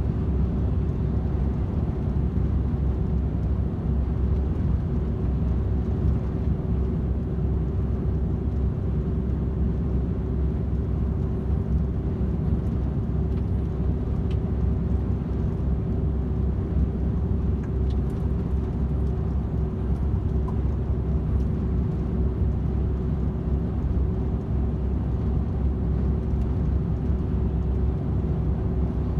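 DAF XF 510 tractor unit's 12.9-litre PACCAR MX-13 six-cylinder diesel engine and tyres running steadily at motorway cruising speed: an even low rumble with a steady hum over it.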